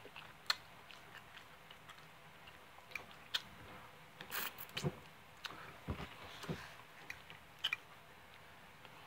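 Close-miked eating: faint chewing of creamy chicken and egg noodles, with scattered wet mouth smacks and small clicks.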